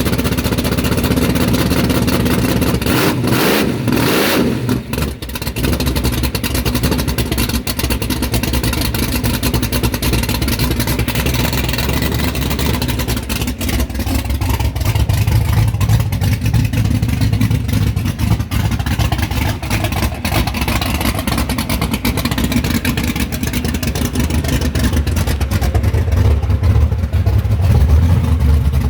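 Loud, modified hot-rod car engine running, with some revving; it gets louder near the end.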